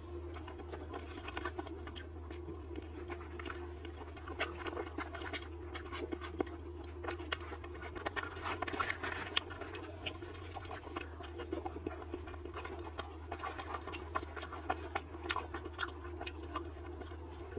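Close-miked chewing of deep-fried skewered food (fried pork tenderloin), with a dense, irregular stream of small crunching and wet mouth clicks over a steady low hum.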